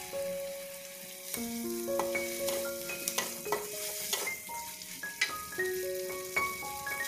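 Food sizzling in a hot metal wok as it is stir-fried with a metal spatula. The sauce-coated egg and carrot hiss, and the spatula scrapes and clinks against the pan in a flurry from about two seconds in. A light background melody plays under it.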